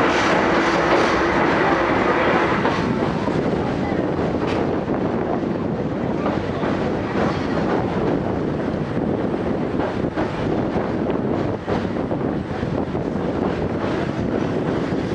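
Vintage passenger coach running along the track, heard from inside the carriage: a steady rumble of wheels on rails with scattered clicks from the rail joints.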